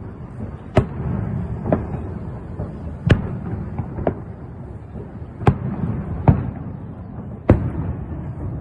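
Fireworks display: about seven sharp bangs at uneven intervals over a steady low rumble.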